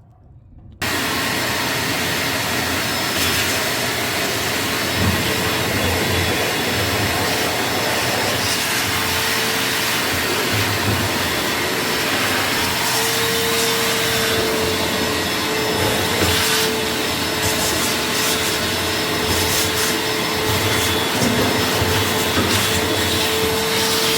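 A motor-driven machine running steadily, switching on suddenly about a second in, with a steady hum tone joining about a third of the way through.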